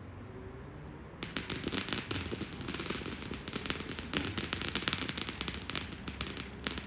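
Fireworks going off: a rapid, dense string of sharp bangs and crackles starts about a second in and keeps going, like a firecracker or crackling cake.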